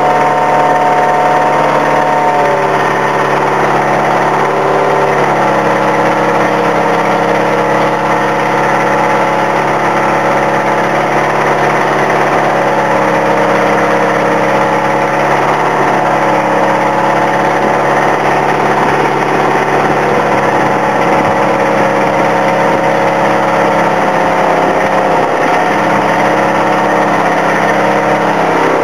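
Engine running steadily, its pitch dipping and rising slightly a few times.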